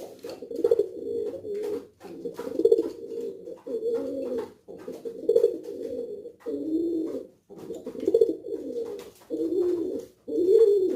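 Domestic pigeon cooing over and over, low wavering coos in phrases of about a second with short breaks between them.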